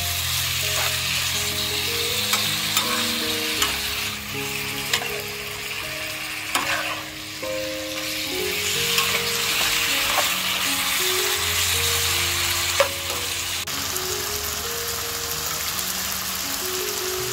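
Chicken pieces sizzling in hot oil with spice paste in a nonstick pan, stirred with a metal spatula that scrapes and clicks against the pan several times. Soft background music plays underneath.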